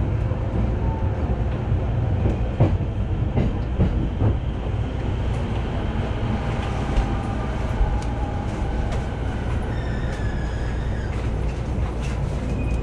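Electric commuter train running, heard from inside the carriage: a steady low rumble with a few sharp clacks over rail joints in the first few seconds. Faint whining tones come in later, while a second train passes close alongside.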